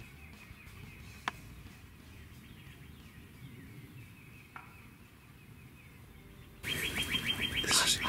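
Faint wild songbird chirping, a short falling chirp repeated over and over, with one sharp click a little over a second in. Near the end, close, loud whispering starts up inside the hunting blind.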